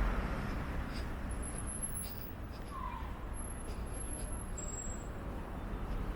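Town street ambience: a low, steady rumble of distant road traffic, with a few faint high-pitched chirps.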